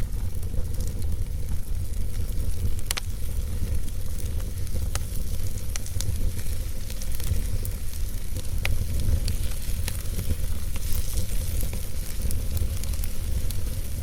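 Fire burning in a fireplace: a steady low rumble and hiss with scattered sharp crackles and pops at irregular intervals.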